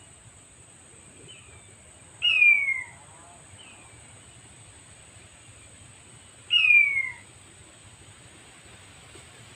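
Male king quail call played on a loop as a trap lure: a short, loud descending whistle, heard twice about four seconds apart.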